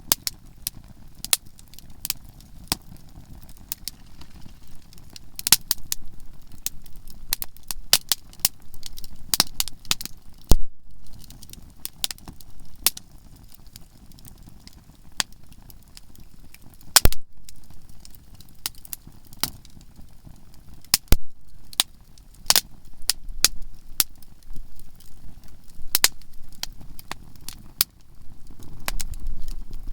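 Campfire of conifer firewood crackling, with frequent sharp pops and snaps as the resinous softwood bursts; the loudest pops come about ten and seventeen seconds in.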